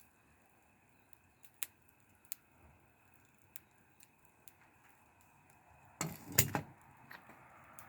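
Wood fire crackling: a faint steady hiss with scattered single pops. About six seconds in comes a brief, louder burst of rustling and knocking, the loudest moment.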